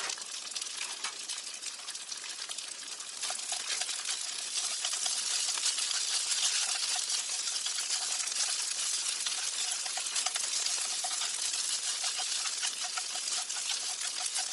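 A steady crackling hiss full of small pops and clicks, getting louder about three seconds in.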